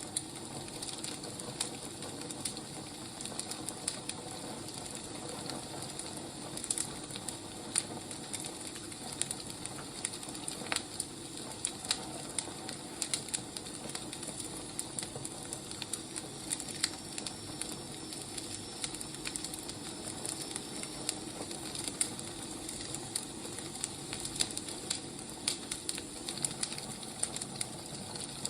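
Firewood burning: a steady hiss with frequent irregular crackles and sharp pops.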